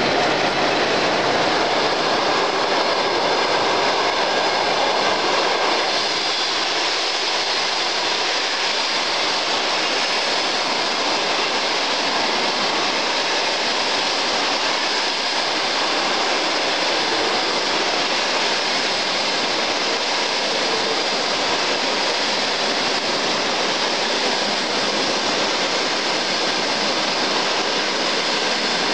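Passenger train coaches rolling past at speed: a steady rush and rumble of wheels on the rails, a little louder for the first six seconds.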